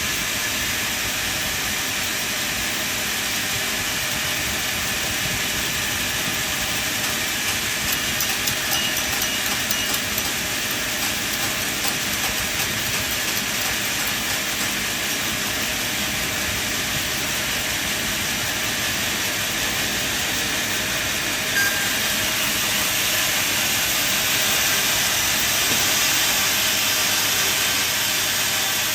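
Sawmill machinery running with a steady, loud hissing noise, typical of a saw cutting timber. About two-thirds of the way through there is a short click, and after it the noise is a little louder.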